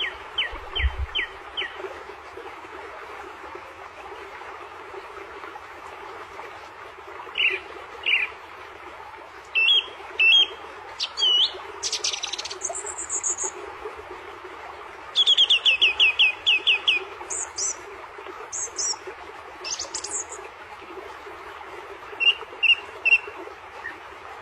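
A small bird chirping and calling in scattered bursts of short, quick down-slurred notes and a few higher whistles, with a fast run of about eight chirps a little past the middle. A steady background rush runs underneath.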